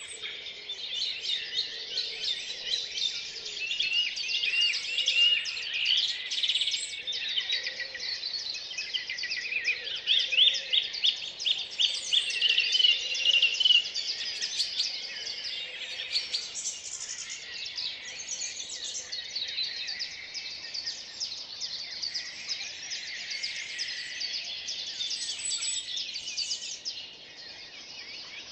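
Early-morning chorus of several songbirds singing at once, dense and overlapping, with runs of quickly repeated notes standing out twice in the first half.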